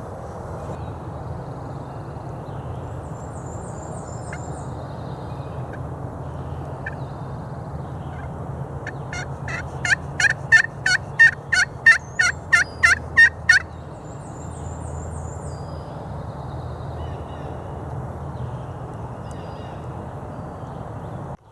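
A turkey call run by hand in a series of about a dozen loud, evenly spaced notes, roughly three a second, starting about halfway through and lasting about four seconds. Faint songbird chirps come before and after.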